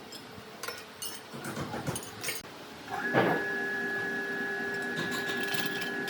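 Workshop handling knocks and clicks, then about three seconds in an electric woodworking power tool switches on and runs with a steady, even hum.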